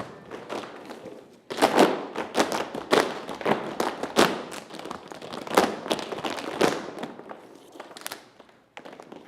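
Tap shoes striking a stage floor in fast, uneven rhythms with no music behind them, each strike a sharp metallic click. The taps are softer for the first second and a half, then loud and dense, and they stop about eight and a half seconds in.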